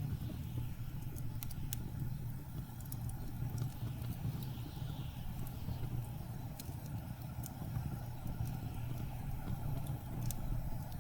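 Steady low rumble of blizzard wind, with scattered sharp pops and crackles from a burning wood fire.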